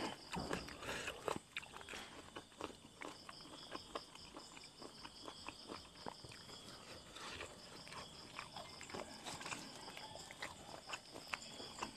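Close-up chewing of crunchy boiled buffalo skin, with small crackles as a boiled egg's shell is peeled by hand. A faint, rapid, evenly pulsing high chirp runs behind from a few seconds in.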